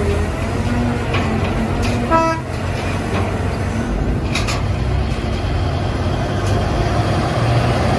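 Heavy vehicle engine running steadily, with a short horn toot about two seconds in.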